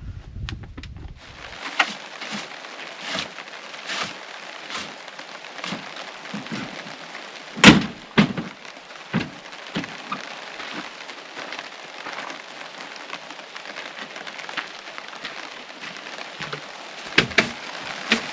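Rain pattering steadily on a surface, with scattered louder drops striking irregularly and one sharp knock about halfway through.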